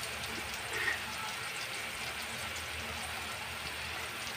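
Potato, carrot and bell pepper pieces frying in oil in a wok: a steady sizzling hiss with faint crackles.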